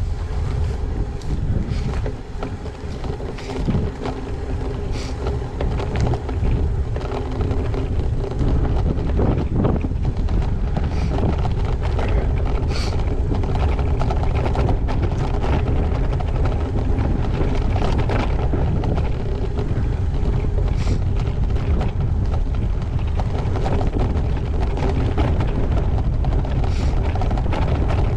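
Wind buffeting the microphone of a bike-mounted GoPro Hero8 while a gravel bike rides along, with a steady low rumble from the tyres and scattered sharp clicks and rattles.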